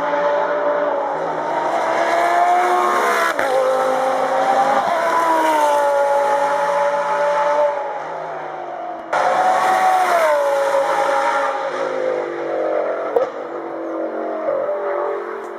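Audi R8 LMS Ultra race car's V10 engine at high revs, its pitch climbing and dropping through gear changes. About nine seconds in the sound jumps abruptly to a louder passage, then falls in pitch and fades away near the end.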